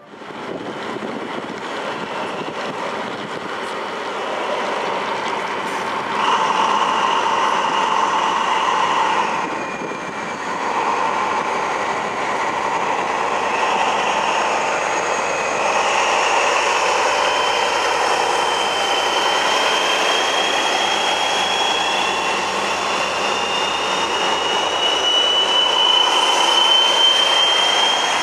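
A locomotive-hauled train running along the station track: a BB 67400 diesel locomotive with Corail coaches. Its wheels squeal with a thin high tone that slowly rises in pitch through the second half, and the noise is loudest near the end as the locomotive draws close.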